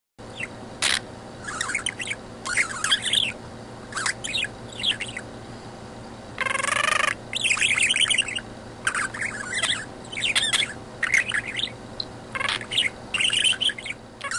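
Budgerigar chattering: a quick, uneven string of short chirps and scratchy warble notes, with one longer, even-pitched note about six and a half seconds in.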